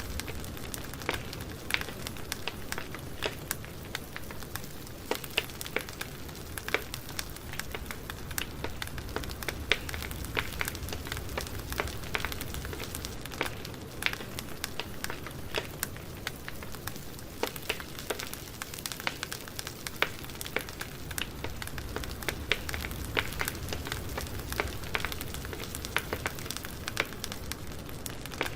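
Campfire burning, with a steady low rumble of the flames and irregular sharp crackles and pops of the burning wood.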